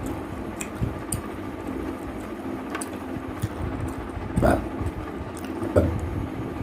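Close-up eating sounds: someone chewing a mouthful of rice and chicken curry, with small wet mouth clicks and two louder short mouth sounds about four and a half and nearly six seconds in, over a steady low background rumble.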